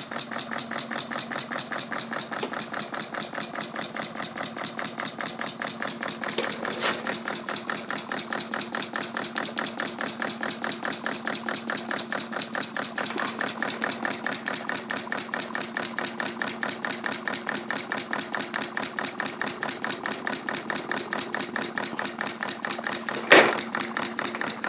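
Homemade one-inch-bore model steam engine running on live steam with a fast, even beat of exhaust chuffs and mechanical clicking. A single sharp knock stands out near the end.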